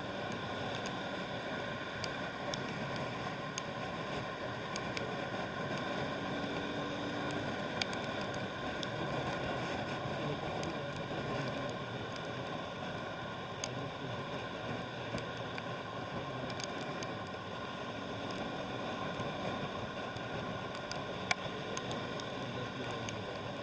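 Steady road traffic noise: an even hiss of tyres and engines, with scattered faint clicks.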